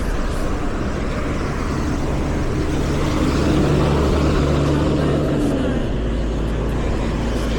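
City traffic heard from a moving bicycle: a steady rush of wind and road noise, with a motor vehicle's engine droning past in the middle.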